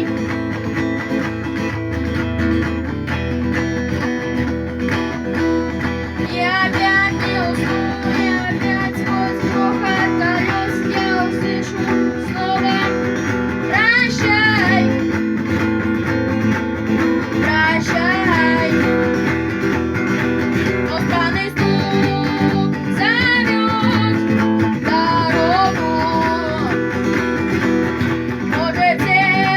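Acoustic guitar strummed in a steady galloping pattern with muted percussive knocks on the strings, while a voice sings a melody over it.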